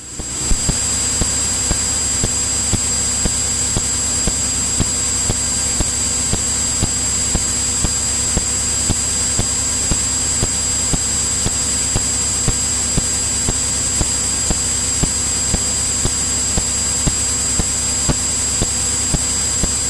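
Steady hiss of a light aircraft's radio and intercom feed, with two thin high-pitched electrical whines, a low hum and a faint regular ticking running through it.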